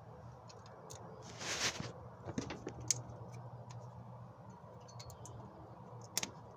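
Scattered light clicks and clinks of tools and metal parts being handled during engine teardown, with a brief scraping rush about a second and a half in.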